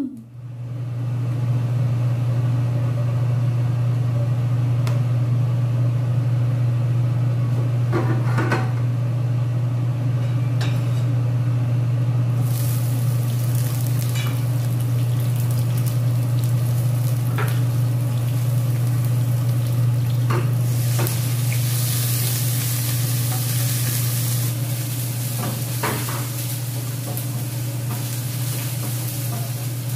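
Sliced shallots frying in hot oil in a pan, the sizzle setting in partway through and swelling, with a few clinks of a utensil against the pan. A steady low hum runs underneath and is the loudest sound.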